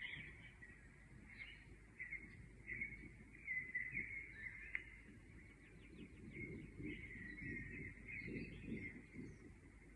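Several small birds chirping and calling in quick, overlapping phrases, over a low rumble of background noise.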